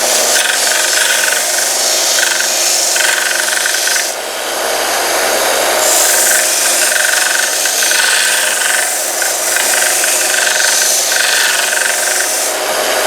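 Harbor Freight 1x30-inch belt sander (1/3 horsepower) grinding a small piece of steel: a steady motor whine under the rasp of the abrasive belt on metal, easing briefly about four seconds in. The belt runs with a light knocking, put down to the belt itself.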